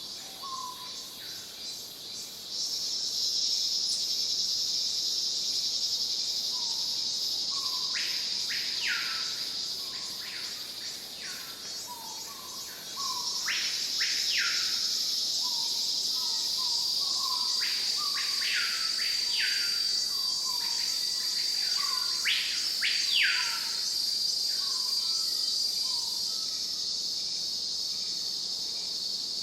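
Natural ambience of insects trilling steadily, with birds calling over them in short notes and repeated upward-sweeping calls. The insect chorus gets louder about two seconds in and again near the middle.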